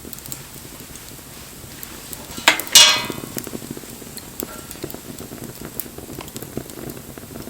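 Wood fire crackling with scattered pops. About two and a half seconds in, two sharp metal clinks close together, the second ringing briefly, like a metal tool or pot being knocked.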